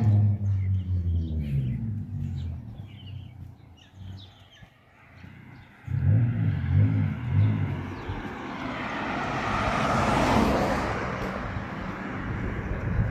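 Motor vehicles passing on a road. One engine fades away over the first couple of seconds. After a quieter spell, another engine comes in suddenly about six seconds in, and its tyre and road noise swells to a peak near ten seconds before easing off.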